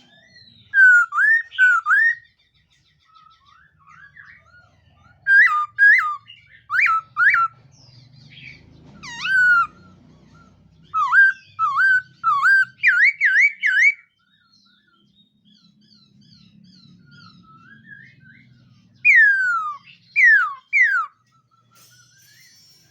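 A laughingthrush (khướu mun) singing loud, clear whistled phrases. Each phrase is a quick run of three to six notes sliding up and down, with pauses of a few seconds between phrases.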